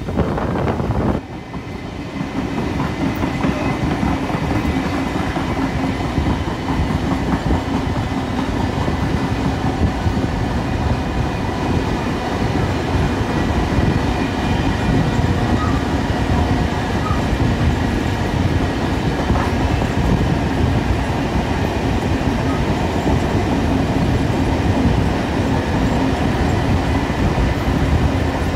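Steam-hauled heritage passenger train running at speed, its carriage wheels rumbling and clattering steadily over the track, heard from an open carriage window with a second train running alongside on the parallel line.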